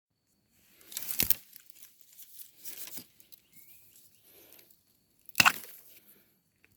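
Dry plant material rustling and snapping: three sharp crackling bursts, about a second in, near three seconds and around five and a half seconds, with light rustling between.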